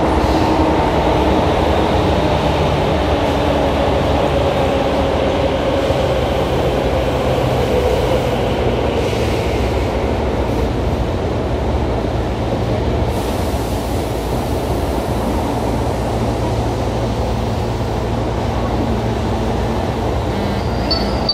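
Tobu 9000 series electric train running through a subway tunnel, heard from inside the car: a steady rumble of wheels and motors, with a faint motor tone sinking slightly in pitch early on.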